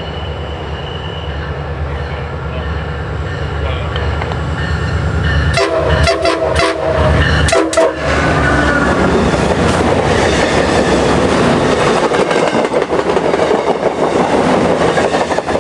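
A MARC commuter train approaching, its rumble growing louder. About five and a half seconds in its horn sounds in a quick series of short blasts, a playful horn show. Then the train passes close by with a loud, steady rush and wheel clatter.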